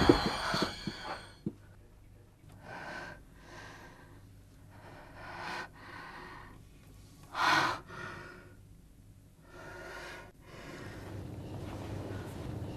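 A young woman breathing hard in about seven short, shaky gasps, the loudest about halfway through. The tail of a loud crash and music fades out at the start, and a low steady hum comes in near the end.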